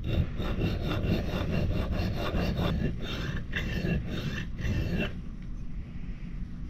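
Steel fire striker scraped back and forth on a sharpening stone in quick, even strokes, grinding its face flat to clean off old grinder marks. The scraping stops about five seconds in.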